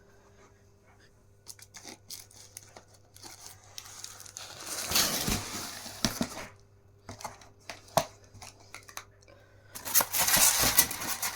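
Packaging being torn and crinkled as a flat-pack display cabinet is unboxed, with scattered clicks and knocks and two longer spells of rustling and tearing, about halfway through and near the end.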